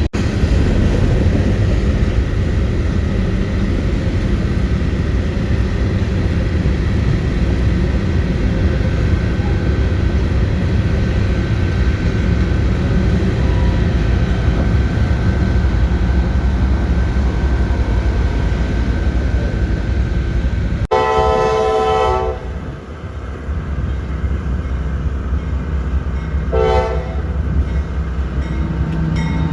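Train rolling past with a steady heavy rumble of wheels on rail. About two-thirds of the way through the sound changes abruptly and a locomotive's multi-note air horn sounds a blast of about a second, a short toot a few seconds later, and another blast at the very end.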